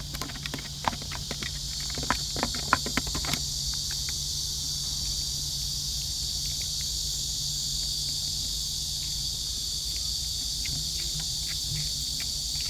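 Steady, high-pitched chorus of insects shrilling. A run of sharp clicks and crackles sounds during the first three or four seconds, then stops.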